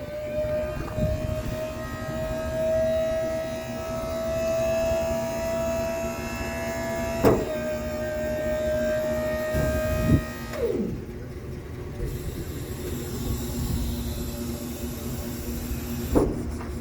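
Electric-hydraulic pump of a dump truck's bed hoist whining steadily for about ten seconds, then winding down in pitch. A lower hum from the idling engine runs underneath, with a few sharp knocks.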